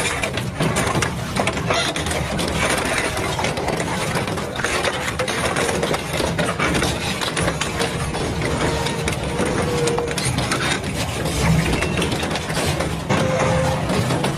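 Double-shaft shredder running under load, a steady machine drone with continuous crunching and cracking as material is torn apart between its cutters.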